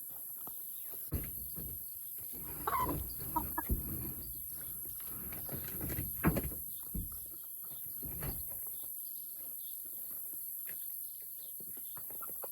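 Chickens clucking and calling in short notes, with a few sharp knocks.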